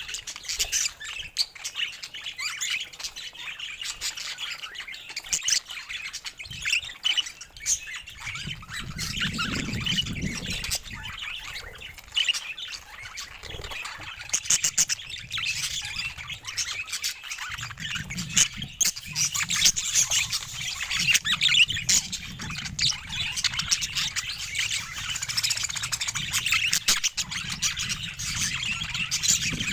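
Pet budgerigars (budgies) chattering continuously, a dense mix of warbling chirps and harsh squawks. A low rumble sits underneath for a few seconds about nine seconds in and again through the second half.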